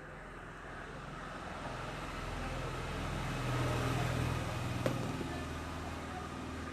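A motor engine running with a low hum that grows louder to a peak about four seconds in, then eases off, as if passing by.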